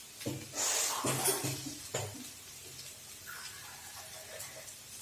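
A few clinks and knocks of kitchen utensils against dishes and a pan, with a short hissing rush about half a second in, then a quieter stretch of faint clatter.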